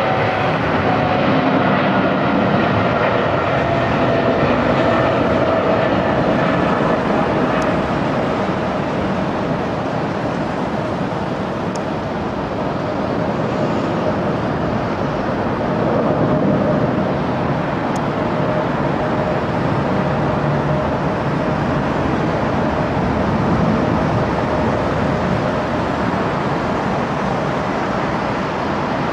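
Jet airliner engines at takeoff power: a loud, steady rushing noise with whining tones that sink slowly in pitch over the first several seconds as the aircraft passes.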